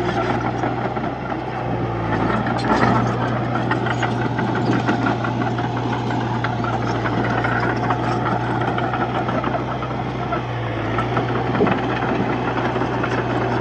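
Diesel engine of a Komatsu D31-P crawler bulldozer running steadily with mechanical clatter, with a couple of louder knocks about three seconds in and again near the end.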